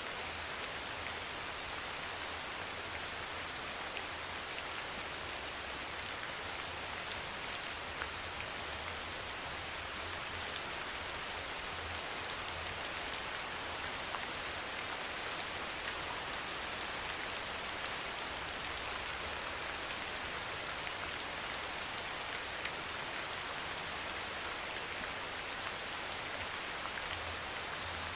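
Steady rain falling, an even hiss with scattered drops ticking on a surface. A faint low rumble comes and goes underneath.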